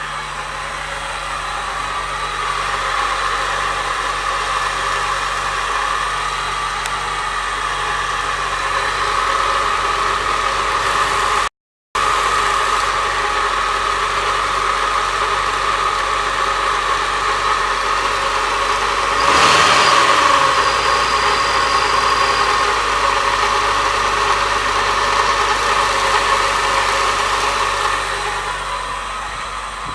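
A 4.1-litre engine, the Chevrolet straight-six, running steadily at idle with the strange noise the owner is recording. The sound cuts out completely for a moment about twelve seconds in. A brief louder swell with a falling pitch comes about twenty seconds in.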